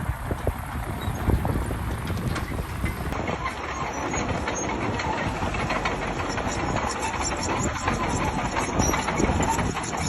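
Heavy machinery running, with a steady engine noise under frequent clanks and rattles.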